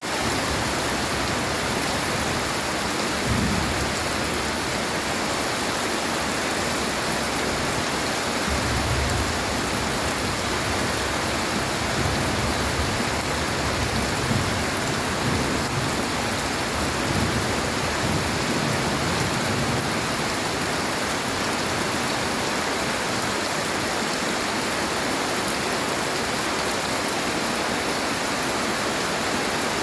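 Heavy rain falling steadily, with low rumbles of thunder about three seconds in and several more between about eight and twenty seconds in.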